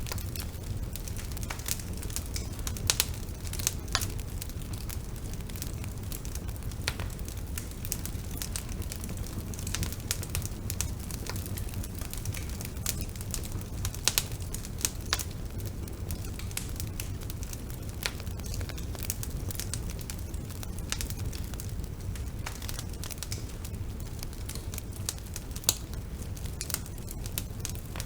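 Wood bonfire burning: irregular crackles and pops from the burning wood over a steady low rumble.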